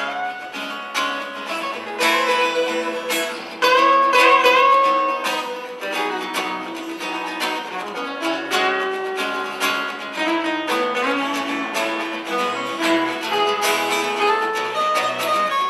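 Acoustic guitars playing an instrumental passage of a pop-rock song, with plucked notes and strums and no singing.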